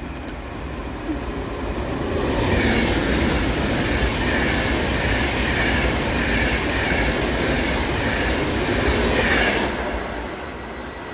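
Class 390 Pendolino electric train passing through at speed without stopping. Its noise builds over about two seconds, holds loud with a regular rhythmic wheel clatter, then drops away quickly near the end.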